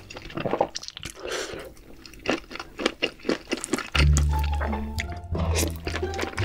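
Close-miked wet chewing and mouth sounds of someone eating saucy, chewy tteokbokki rice cakes: sticky clicks and squelches. Background music with a deep bass line comes in about four seconds in.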